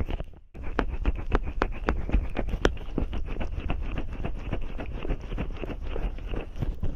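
Fingers rubbing cream and oil over microphone ears in an ASMR ear massage: a dense run of wet, sticky crackles and clicks, with a brief break near the start.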